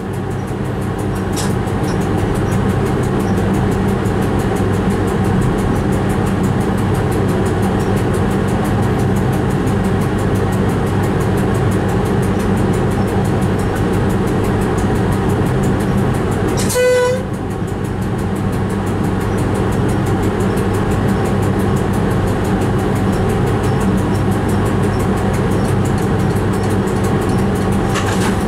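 Train running steadily, heard from inside the driver's cab as a constant low rumble and hum. About two-thirds of the way through, the train's horn gives one short toot.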